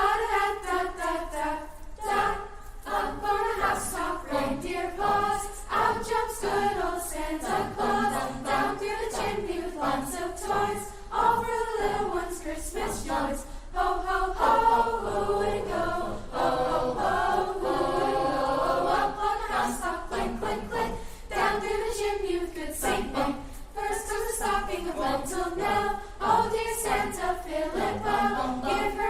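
A choir singing, possibly unaccompanied, in continuous sung phrases.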